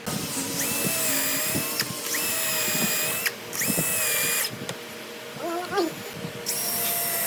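Power tool running in bursts of about a second, stopping and starting again three times, then a pause with a short squeal before it starts once more near the end.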